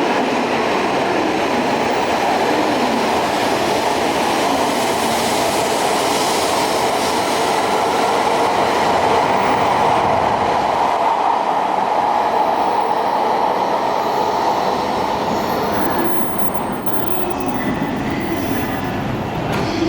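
A train running on the rails close by, a steady loud noise of wheels on track with some wheel squeal, easing off about sixteen seconds in.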